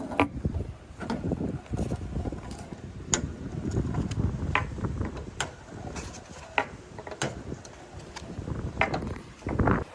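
Balls rolling down a wooden marble-run track with a steady low rumble, broken by sharp clicks and clacks as they knock against each other and the track. A louder burst of clacks comes near the end.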